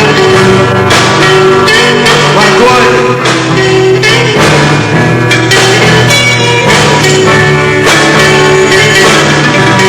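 Rock band playing live and loud: amplified electric guitar and bass over a drum kit, with steady drum hits throughout.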